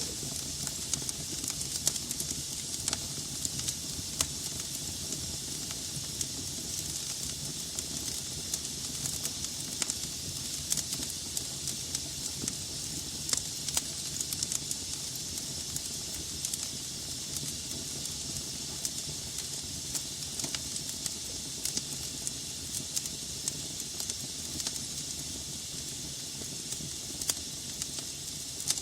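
Wood logs burning in a fireplace: a steady hiss of flames with frequent irregular sharp crackles and pops.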